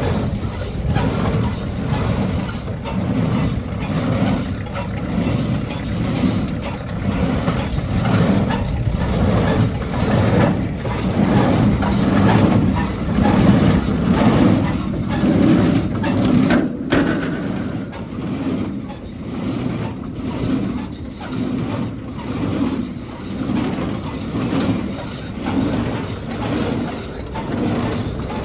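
New Holland Compact Hayliner 65 hay baler running empty, its mechanism giving a steady rumble that swells rhythmically about once every second and a half.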